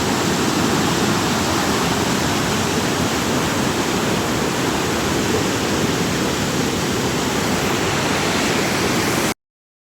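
A waterfall in full spate: a heavy, steady rush of falling water that cuts off suddenly near the end.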